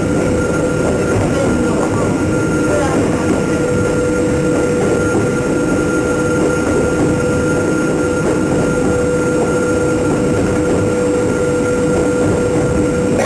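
Hakone Tozan Railway electric train running at a steady pace: a continuous rumble of wheels on track with a steady motor hum over it.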